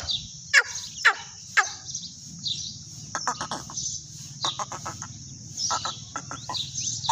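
Teetar (francolin) calling: three short, sharp calls falling in pitch in the first two seconds, then several bursts of quick repeated notes, over a steady high hiss.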